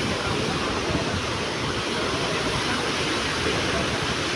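Steady rushing noise of sea surf breaking along the shore.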